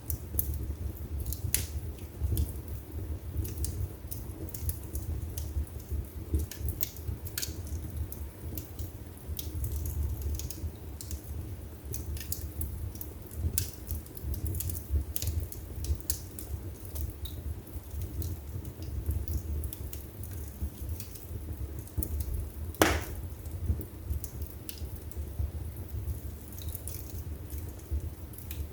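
Wood fire burning in a fireplace: a steady low rumble of flames with scattered crackles and snaps, and one louder pop about twenty-three seconds in.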